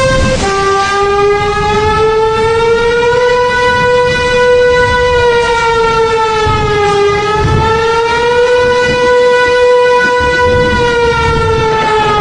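A siren wailing: one long, loud tone that slowly wavers up and down in pitch, with a sudden drop in pitch just after the start.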